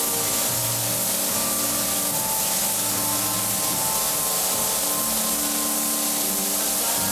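Spray gun hissing steadily as it sprays lacquer, with music playing underneath.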